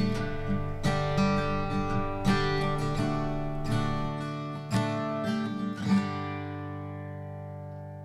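Acoustic guitar music: a few strummed chords, the last one about six seconds in left ringing and slowly fading out.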